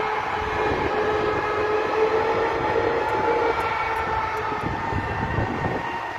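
Electric train running with a steady multi-tone whine of its traction equipment over a low rumble.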